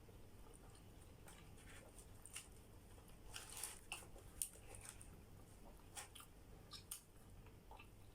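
Faint chewing and mouth sounds of people eating, with a dozen or so soft scattered clicks and smacks.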